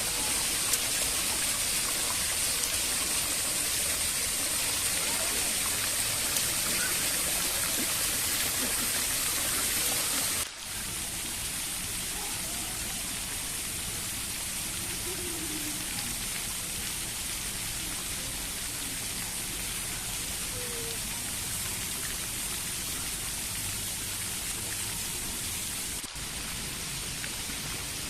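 Steady rush of running water. The sound breaks off and resumes slightly quieter about ten seconds in, with another brief break near the end.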